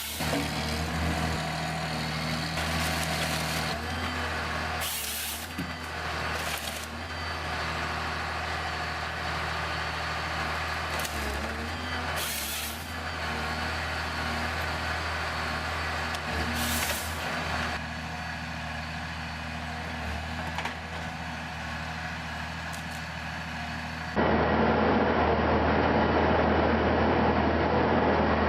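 Heavy machinery engine running steadily, with repeated short bursts of hissing several seconds apart. About 24 s in the sound changes abruptly to a louder, rougher machine noise.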